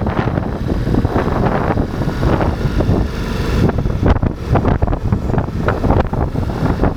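Ducati Multistrada V4 motorcycle riding along, its V4 engine running under heavy wind buffeting on the microphone.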